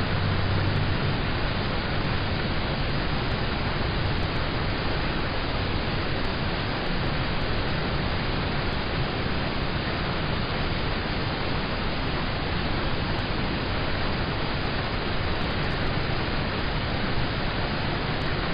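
Steady rain on a car's roof and windows, heard from inside the car as an even, unbroken hiss. A faint low hum fades out in the first second or so.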